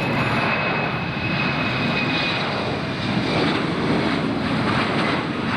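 Airliner engines running close by, a steady loud rushing noise with a faint high whine over it.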